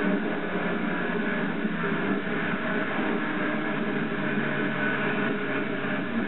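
Motorcycle engine running at a steady pace while riding, under a haze of wind and road noise. The engine note stays level, with a slight drop about two thirds of the way in.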